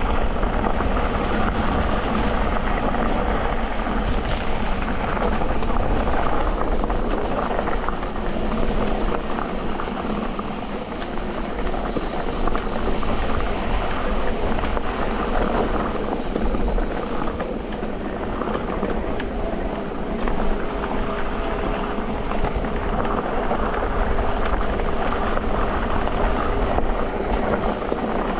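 Electric mountain bike ridden over a dirt trail: knobby tyres rolling and the bike rattling over rough ground in a dense, steady noise, with a high whine swelling and fading near the middle.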